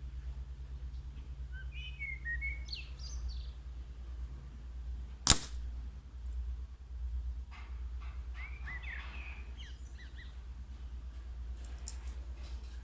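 A single air rifle shot, one sharp crack about five seconds in, with birds chirping before and after it.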